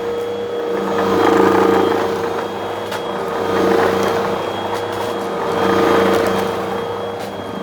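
Vacuum cleaner running with a steady motor hum, its sound swelling and fading about every two seconds as it is pushed back and forth over the floor.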